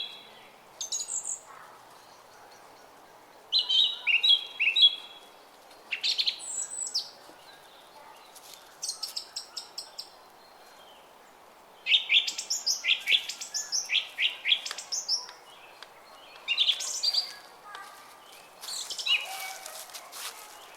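Small songbirds chirping and singing in short repeated phrases, several bouts overlapping, densest around the middle. Beneath them runs the steady babble of a brook.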